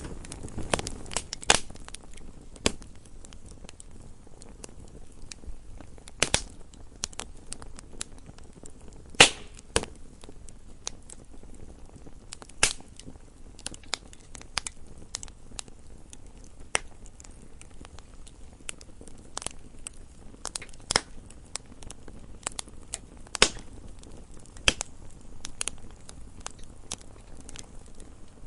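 Wood fire burning in a fireplace: logs crackling with irregular sharp pops, a few louder than the rest, over a low steady hiss.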